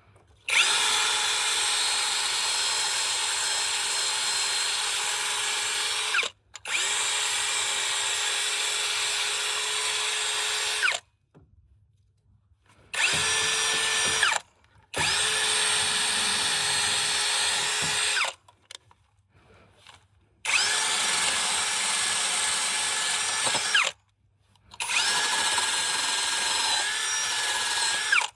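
Electric power drill running at a steady speed in six bursts of a few seconds each, separated by short pauses. At the end of each burst the pitch drops briefly as the motor spins down.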